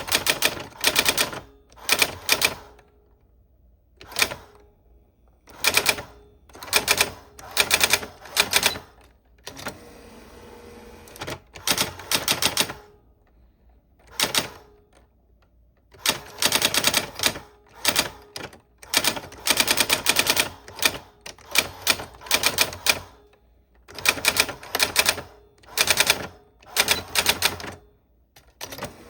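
Old typewriter being typed on: keys striking in quick runs of clicks, broken by short pauses.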